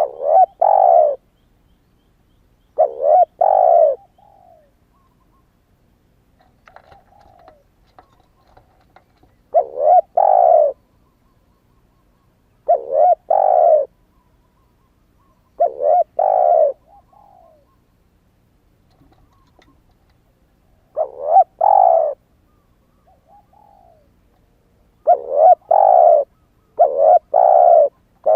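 Spotted dove cooing: short phrases of two or three low coos, repeated every few seconds and coming closer together near the end, with soft, quieter notes in some gaps. It is the song of a young male that has only just started to coo.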